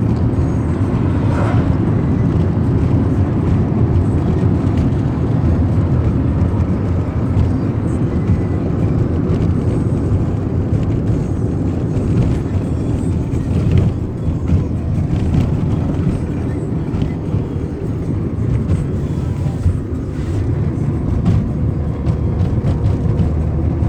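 Steady road and engine rumble inside a moving Lada Kalina 2 wagon, with music playing over it.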